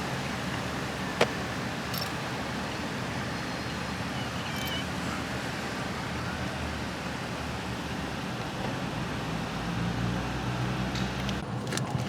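Steady engine rumble under a hiss of noise, with a single sharp click about a second in.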